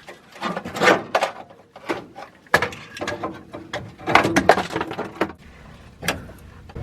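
Irregular clanks and knocks of hand tools and metal parts against the truck's underside, a run of sharp strikes with some ringing, from work under the vehicle.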